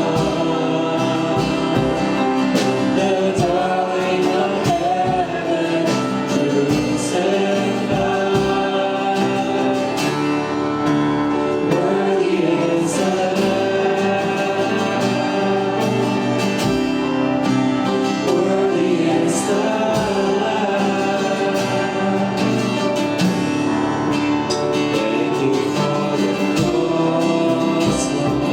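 Church worship music: a gospel song sung by several voices together, with instrumental accompaniment.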